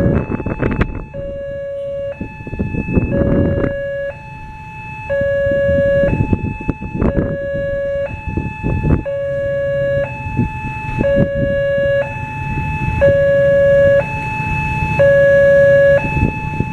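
Level-crossing warning siren, a shrill electronic two-tone alarm alternating between a lower and a higher pitch about once a second, sounding as the crossing barriers close for an approaching train. Road traffic noise runs underneath.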